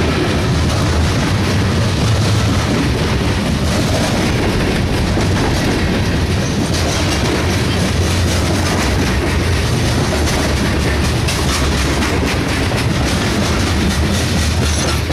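Loaded covered hopper cars of a freight grain train rolling past, a loud steady rumble and rattle of steel wheels on rail with repeated clicking over the rail joints.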